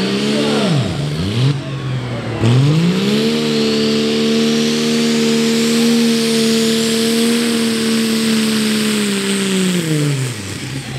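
Pro Stock pulling tractor's turbocharged diesel engine at high revs. The revs drop sharply about a second in, then surge back up and are held steady and high for several seconds under load before falling away near the end.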